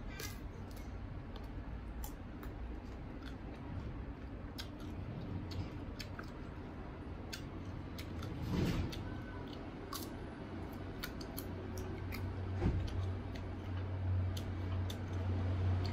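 Close-up crunching and chewing of crisp, sour unripe green mango slices, with many short, sharp crunches. Two louder thuds come in the second half, and a steady low hum underneath grows louder.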